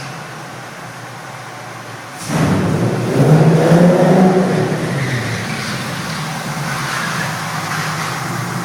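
Tornado TSC GT40 replica's engine running on its first run: idling, then revved once about two seconds in, the pitch rising and falling, before settling back to a steady idle.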